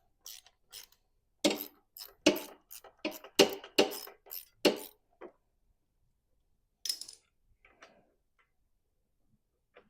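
Sharp metallic clinks and knocks of tools and small metal parts being handled while working on a lawn mower: a quick run for about five seconds, then one more clink a couple of seconds later and a few faint taps.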